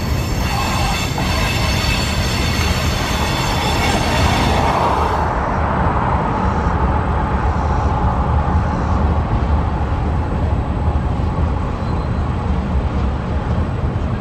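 Freight train tank cars and hoppers rolling past on the mainline with a steady rumble of wheels on rail. A high-pitched wheel squeal rides over it for the first five seconds or so, then stops.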